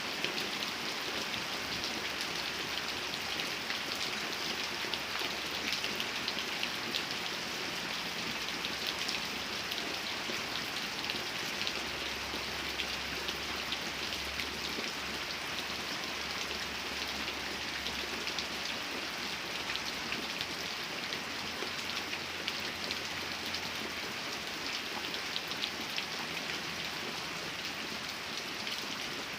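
Steady rain falling, a dense, even patter of individual drops.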